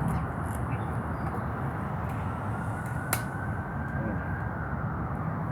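Loud, steady low rumble of outdoor background noise, with a sharp click about three seconds in and another at the end.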